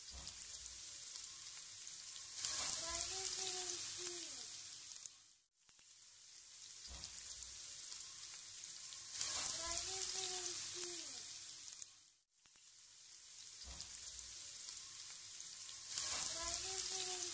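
Diced bell peppers and onions sizzling as they fry in a nonstick pan. The same stretch of sizzle repeats three times, each time fading in, getting louder partway through and fading out. A brief faint gliding tone sits near the loudest part of each pass.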